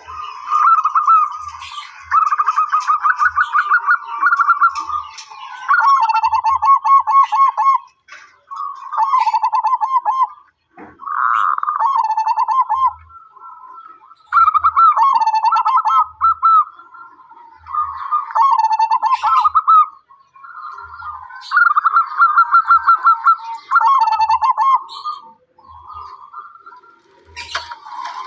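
Zebra dove (perkutut) cooing: repeated phrases of quick, rippling notes, each a second or few long with short gaps between, with fainter thin, higher chirps alongside.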